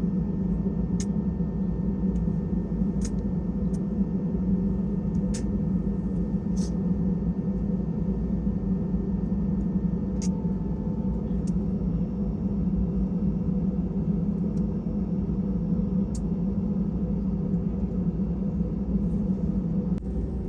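Steady low rumble of an Airbus A320's cabin noise from the engines and airframe, with a few faint scattered clicks.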